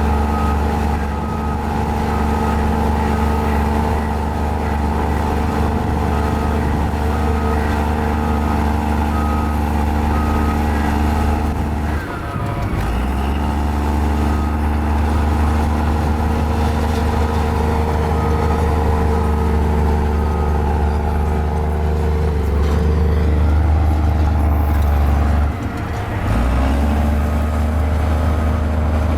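A mini Komatsu bulldozer's diesel engine runs steadily under work. A reversing alarm beeps evenly for long stretches. The engine note drops briefly about twelve seconds in and again near the end.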